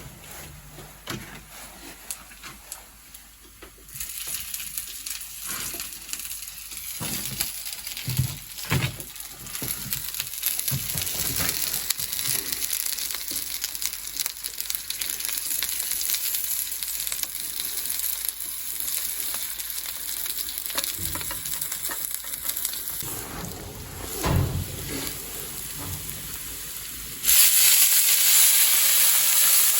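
Pelmeni frying in hot oil in a pan, sizzling steadily, with short knocks and scrapes of stirring. About 27 seconds in, the sizzle jumps suddenly much louder.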